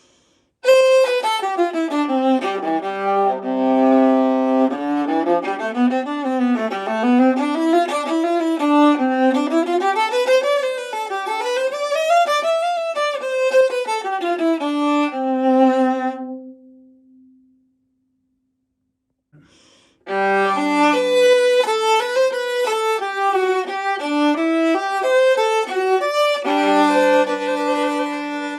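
Antique 16-inch Italian viola, labelled Giovanni Pistucci, Naples c1898, bowed solo in runs of notes that climb and fall. The notes ring away into a pause of a couple of seconds past the middle, then the playing starts again.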